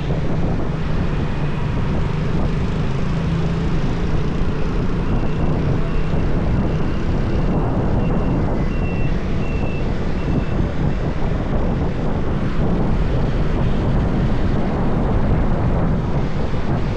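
Riding a motorbike on a highway: steady wind rush on the microphone over the bike and road noise. A faint, repeated high beeping from another source comes in about five seconds in and stops about ten seconds in.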